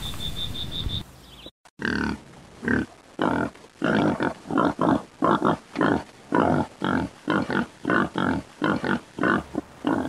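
An animal's short, rough grunts in a quick, uneven run of about two a second, starting about a second and a half in. Before them, for about the first second, an insect's fast, high pulsed chirping.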